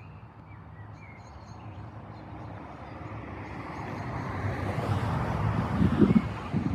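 A car passing by on the road, growing louder over a few seconds and peaking near the end, with birds chirping faintly at the start.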